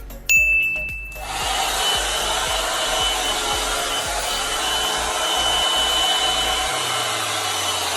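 2-in-1 hair dryer and volumizer brush blowing, starting with a high tone just after the opening and then running steadily with a whine over the rush of air from about a second in. It stops abruptly at the end.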